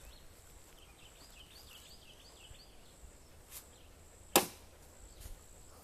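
A single sharp knock about four seconds in, a thrown object striking its target in a throwing game, with a smaller click shortly before it. Faint bird chirps repeat early on.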